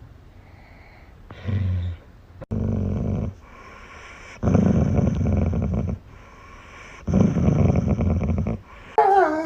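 A dog growling in four rough, low bouts with short pauses between them. Near the end it breaks into a wavering, pitched whine.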